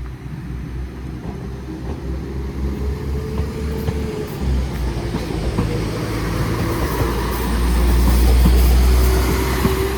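Class 195 diesel multiple unit pulling away from the platform, its engine drone building and loudest about eight seconds in.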